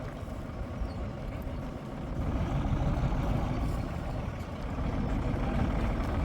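Heavy engine running with a steady low rumble, getting louder about two seconds in.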